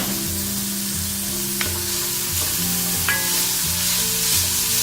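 Chopped onion, ginger, garlic and carrot frying in hot oil in a pan with a steady sizzle, a spatula clicking against the pan a couple of times as it is stirred. A low tune of steady notes runs underneath.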